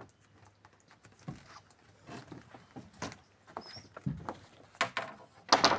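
Irregular light pattering and tapping from a freshly hooked piau flapping and splashing as it is brought in.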